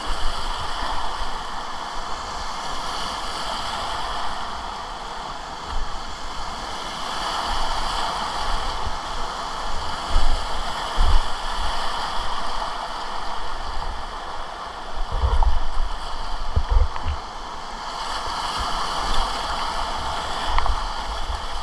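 Whitewater river rushing steadily, with irregular low thumps scattered throughout.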